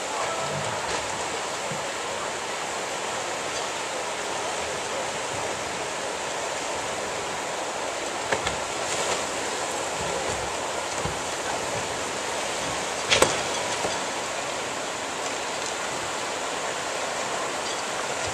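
Steady rushing of tsunami surge water pouring through the harbor, with a few scattered knocks; the loudest is a sharp crack about 13 seconds in.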